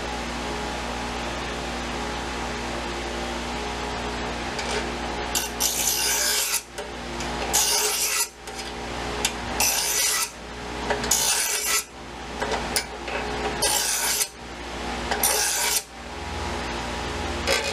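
Abrasive scraping strokes on a steel knife blade, rubbing out rust and pitting. The strokes come about every one and a half seconds from about five seconds in, over a steady hum.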